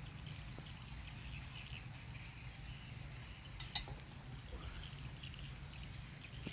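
Faint outdoor ambience: scattered high chirps of small creatures over a steady low hum, with one sharp click a little past halfway.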